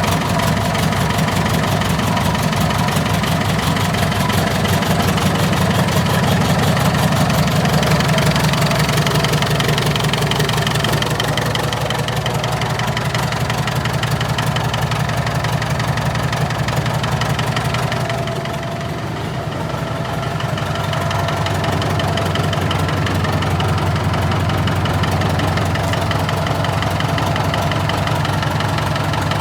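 David Brown tractor engine running steadily at idle with an even, rapid firing beat. It briefly gets quieter about two-thirds of the way through, then picks back up.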